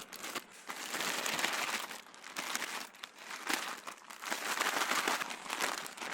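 A plastic food bag being squeezed and kneaded by hand to mix wet ingredients inside it, crinkling in several swells with small crackles.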